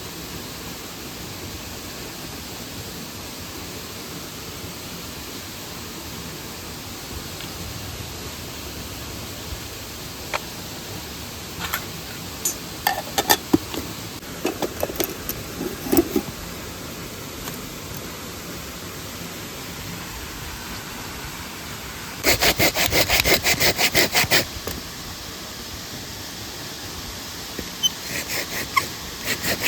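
Hand saw cutting through wood in a quick run of rhythmic strokes for about two seconds, starting after a steady rush of running stream water and scattered knocks of wood being handled. The sawing starts again near the end.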